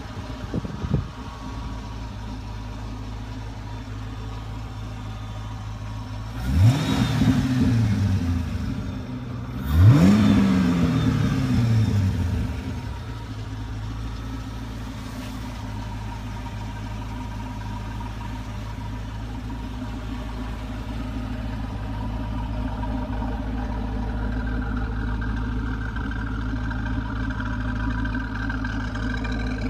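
2002 Chevrolet Corvette C5's 5.7-litre V8 idling steadily, revved twice: about six and a half seconds in and again about three seconds later, each rev rising sharply and sinking back to idle over a couple of seconds.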